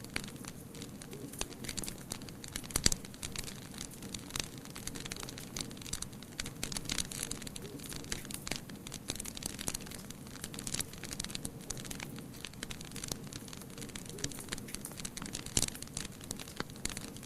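Wood fire crackling, with irregular sharp pops over a steady hiss; one louder pop about three seconds in.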